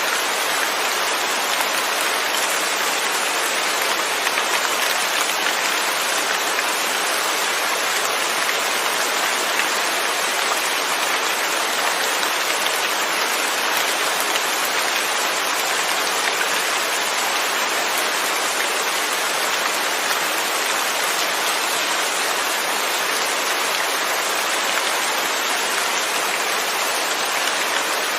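Steady rain falling without thunder, an even hiss of drops with no breaks or distinct events.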